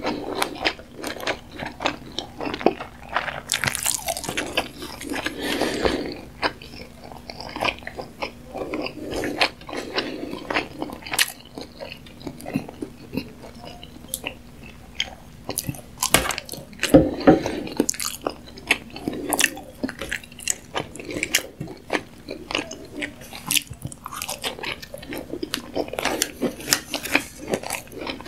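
Close-miked mouth sounds of a person chewing sushi: wet, sticky chewing with many quick clicks and smacks.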